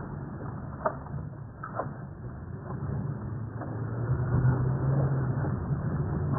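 Car engine and road noise while driving, the engine note growing louder about halfway through, with a few short knocks early on.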